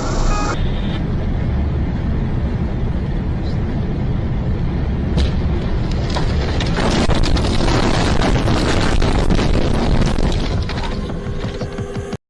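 Car dashcam audio: a steady rumble of road and engine noise. From about seven seconds in it grows louder, with dense crackling and knocking that dies down after about eleven seconds.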